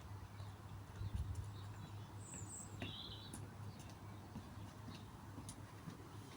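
Faint steady low hum of a Chinese diesel air heater running, with a short bird chirp about three seconds in.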